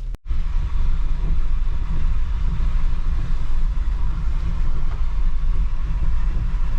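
A Jeep driving along a muddy dirt road: steady engine and tyre rumble, strongest at the low end, after a short break near the start.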